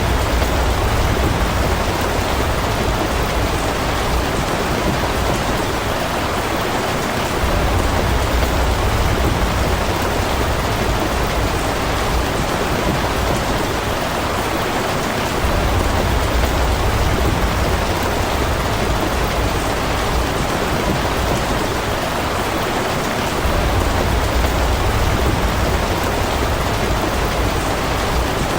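Steady heavy rain falling, an even hiss of drops, with a low rumble that swells and fades about every eight seconds, four times.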